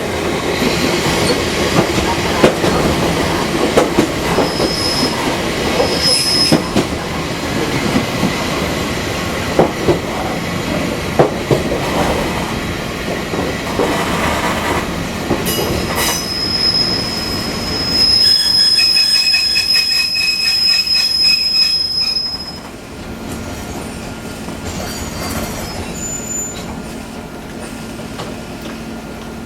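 Fukui Railway 200-series electric railcar running, its wheels knocking irregularly over the rail joints. About halfway through, a steady high wheel squeal sets in and holds for several seconds, after which the running noise turns quieter.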